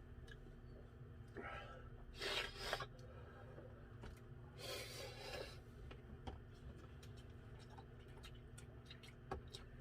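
Quiet eating sounds from people eating spicy ramen: two short breathy, noisy bursts about two and five seconds in, with faint scattered clicks like utensils on a bowl.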